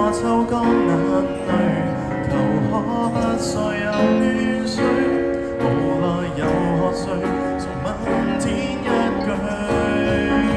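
Live band music: a Cantopop cover playing through an instrumental passage with no sung lyrics.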